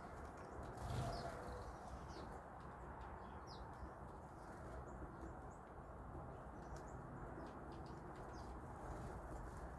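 Scattered short, high bird chirps from small birds at a feeder, over a steady low background rumble, with a few faint clicks and a low thump about a second in.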